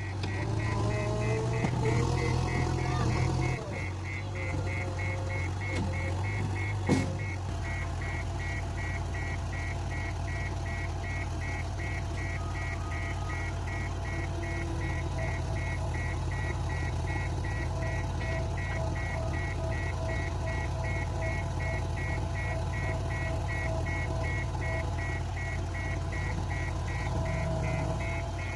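Backhoe loader's diesel engine running, its pitch shifting under load for the first few seconds and then holding steady, with a sharp knock about seven seconds in. A fast, high-pitched beep repeats throughout.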